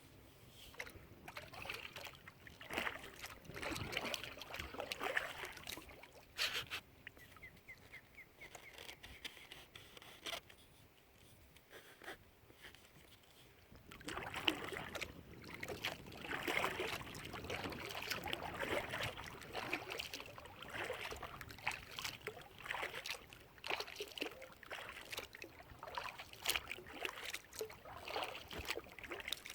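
Kayak paddle blades dipping and pulling through water, splashing and dripping in a loose rhythm of strokes; the strokes stop for several seconds in the middle while the kayak glides, then resume.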